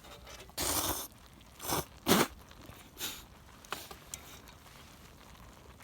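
Ramen noodles being slurped in a few short noisy sucks, the loudest about two seconds in.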